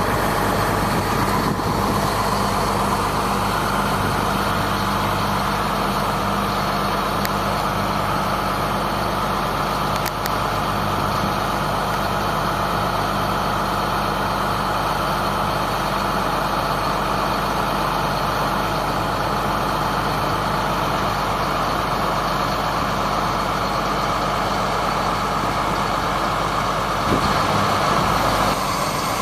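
1999 GMC digger truck's engine running steadily at constant speed, a low even hum with a broad whir over it.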